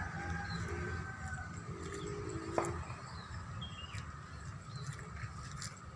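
Birds calling among trees: a few short high chirps and a longer, lower call about two seconds in, over a steady low rumble. A single sharp click comes just before the three-second mark.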